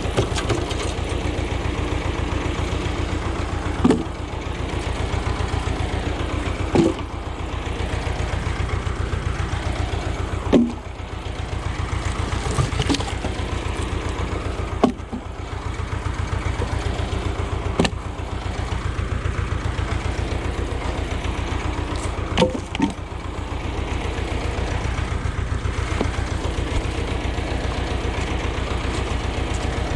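Ursus tractor engine running steadily, its firing pulses even and unbroken. Over it comes a sharp crack every three to five seconds as the wood is split.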